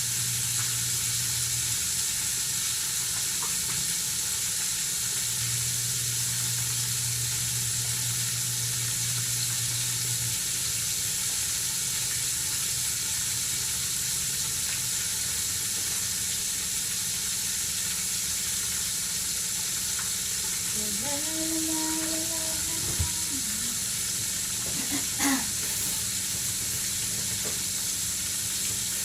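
Chicken deep-frying in hot oil: a steady sizzle. A short hum-like voice sounds about two-thirds of the way through, and two sharp knocks come soon after.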